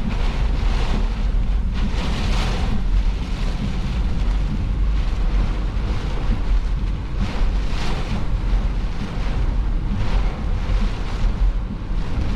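Gusty storm wind buffeting the microphone: a steady low rumble that swells in several gusts.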